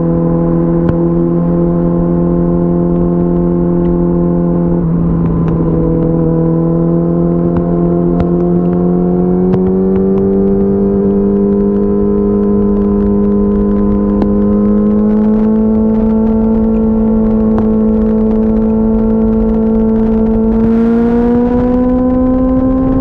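2004 Yamaha R6's inline-four engine pulling steadily in gear at highway speed, its pitch climbing slowly as the bike gains speed. Wind rushes over the microphone underneath.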